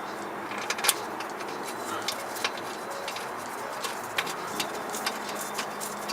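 Scattered light metallic clicks and taps as intake-manifold bolts, just coated with Loctite, are handled and set into the manifold by hand, one sharper click about a second in.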